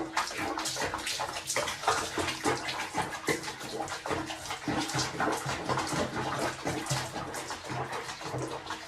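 Water splashing and sloshing in a tub in quick, irregular strokes.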